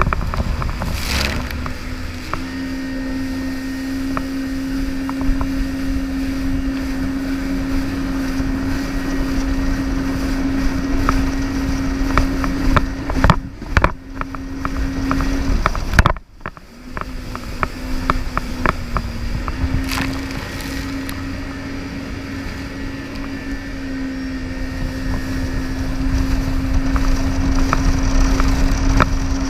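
Jet ski engine running at a steady speed, holding one even pitch with a strong low rumble. The sound cuts out briefly twice around the middle, and the pitch sags slightly a little later.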